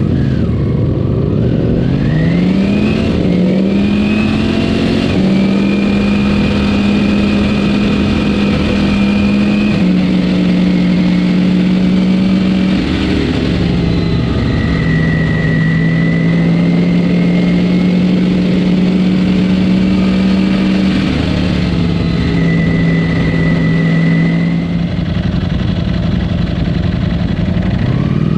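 Ducati Panigale V4S's V4 engine through its stock exhaust, revving up with a rising note over the first few seconds. It then cruises at a near-steady engine speed, with the pitch stepping down slightly a few times as the throttle eases.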